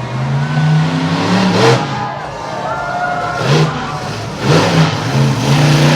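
Car engine revving in several blips, its pitch climbing and falling back a few times.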